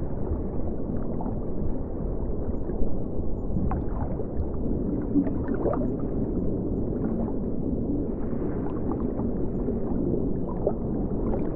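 River water flowing and gurgling steadily, with small bubbly chirps and pops scattered through it.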